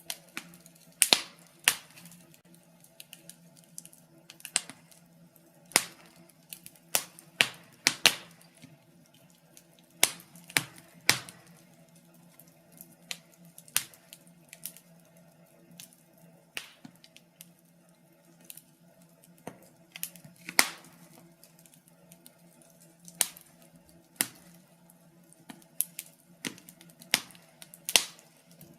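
Wood fire burning in a fireplace, crackling with irregular sharp pops, some much louder than others, over a faint steady low hum.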